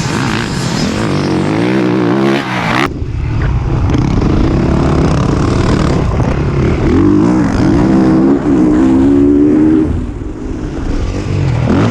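Single-cylinder four-stroke engine of a 2021 Honda CRF450RX dirt bike running hard on track, its pitch rising and falling repeatedly as the throttle is worked; the sound changes abruptly about three seconds in.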